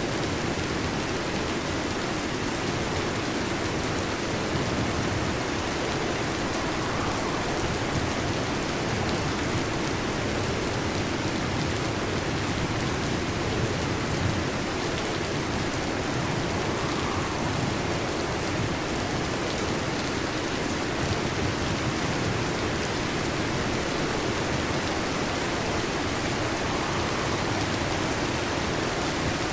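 Heavy rain drumming steadily on a metal (tin) roof, an even, unbroken hiss of drops.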